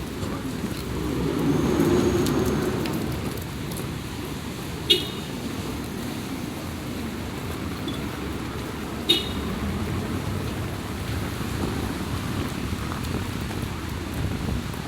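Street traffic in heavy rain: a steady hiss of rain and road noise, with a vehicle passing about two seconds in. Two short, sharp, high-pitched pings come about four seconds apart.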